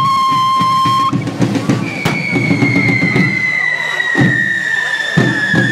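Hand-held firework fountains spraying sparks with shrill whistles: one steady whistle stops about a second in, and another begins near two seconds and slowly falls in pitch. Drumming runs underneath, with a few sharp bangs.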